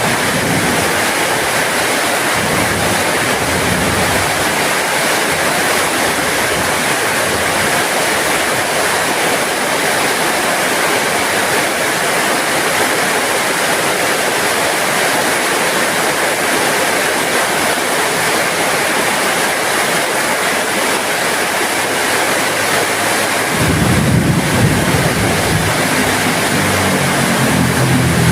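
Heavy rain falling steadily. A low rumble comes in near the end.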